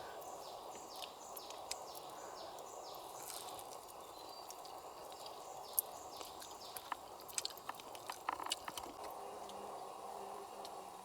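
Rainforest ambience: a steady background hum of insects, with a series of short, high, falling chirps and scattered small clicks and taps about two-thirds of the way through.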